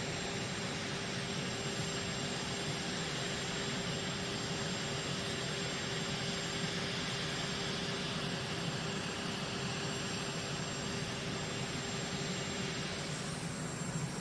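Steady roar of jet aircraft engines running, with a high hiss over a low rumble and a faint steady tone.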